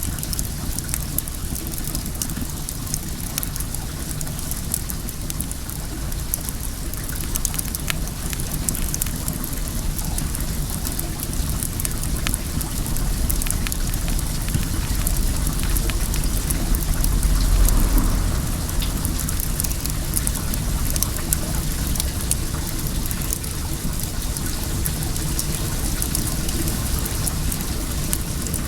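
Wood bonfire crackling with many sharp pops over a steady rush of running well water. A low rumble builds through the middle and drops away suddenly about two-thirds of the way in.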